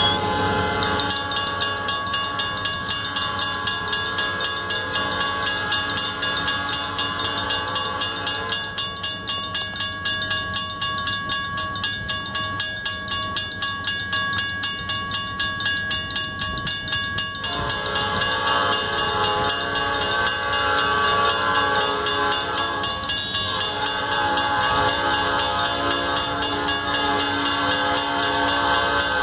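Two mechanical railroad crossing bells, a WRRS and a RACO, ringing with steady rapid strokes, while a locomotive's air horn sounds long blasts for the crossing, its chord changing partway through.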